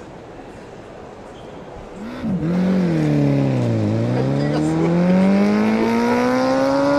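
An engine-like vehicle sound starts loudly about two seconds in. Its pitch dips, then climbs slowly and steadily, like an engine being revved up.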